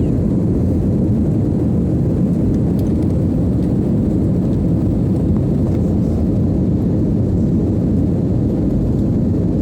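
Steady low rumble of a jet airliner, holding an even level throughout.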